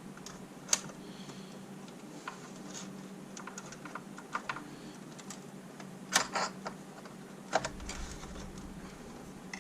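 Light, irregular clicks and taps of hands handling a plastic G-scale model passenger car and feeding wires through it, with a few louder clatters about six and seven and a half seconds in.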